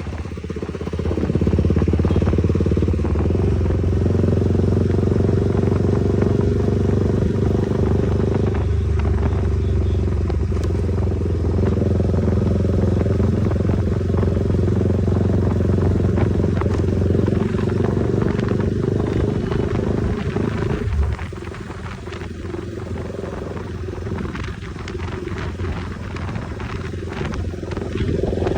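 KTM motorcycle with a newly changed silencer running at road speed. The engine sound builds about a second in and holds steady, drops quieter about three quarters of the way through, then picks up again near the end.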